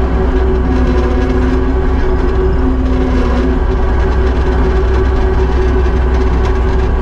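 Kubota SVL75-2 tracked skid steer's diesel engine running steadily, with low tones that fade in and out.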